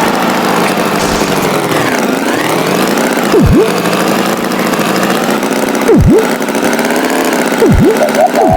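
Cartoon tractor engine sound effect running steadily, its pitch dipping and rising again about two seconds in, with short swooping sound effects about three times.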